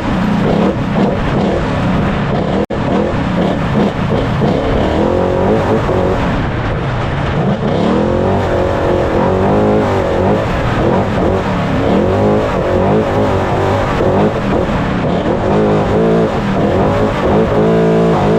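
Trophy Truck engine under race load, heard from onboard, its pitch climbing and falling again and again as the throttle works, over a constant din of mechanical and road noise. The sound drops out for an instant about three seconds in.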